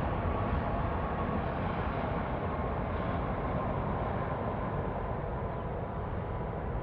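Jet airliner engine noise, a broad rumble with a faint steady whine, slowly fading away.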